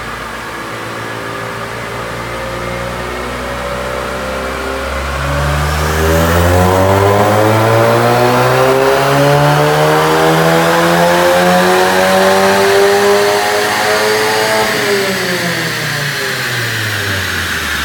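Volkswagen Golf GTI's turbocharged four-cylinder engine making a dyno pull: it runs at low revs for about five seconds, then the pitch climbs steadily under load for about ten seconds as it gets louder, then falls as the engine is let off and winds down.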